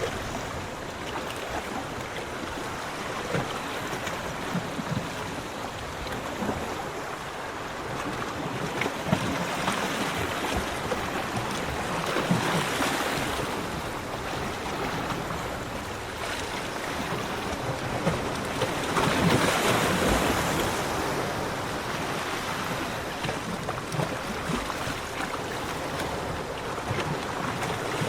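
Sea waves breaking and washing onto a beach, a steady rushing surf that swells twice, about ten seconds in and again just before twenty seconds.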